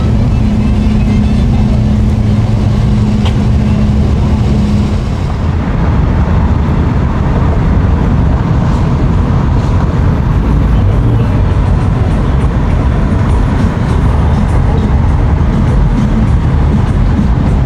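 Boat engines running with a steady low rumble, with a held low hum over it that stops about five seconds in.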